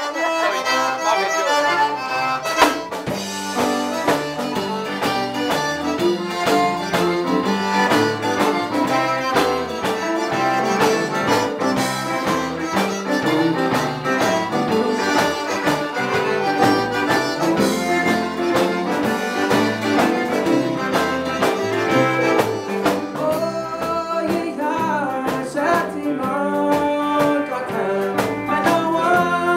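Live Cajun band music led by accordion, with a steady beat.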